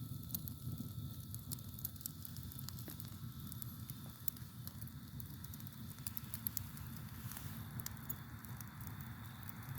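Wood campfire crackling, with frequent irregular sharp pops and snaps over a low steady rumble of burning. A faint, steady high cricket trill runs behind it.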